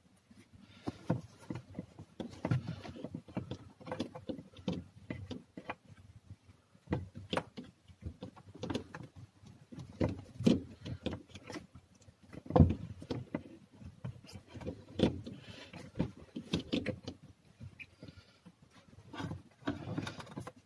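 Hand work on car parts with tools: irregular clicks, knocks and rattles, the loudest knock about twelve seconds in.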